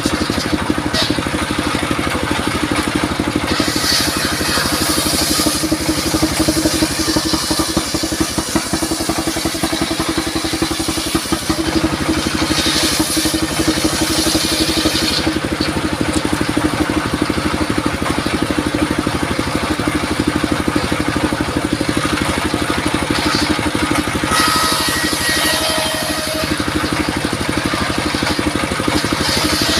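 Engine of a portable circular sawmill running steadily, with stretches of harsher high hiss about four, twelve and twenty-four seconds in.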